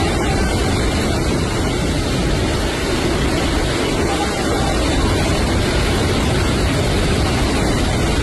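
Hurricane-force wind blowing hard without a break and buffeting the microphone, with heavy rain.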